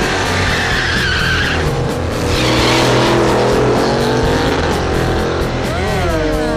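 A muscle car's tires squealing and spinning in a drag-strip burnout, with the engine revving. Late on, the engine pitch drops sharply and climbs again.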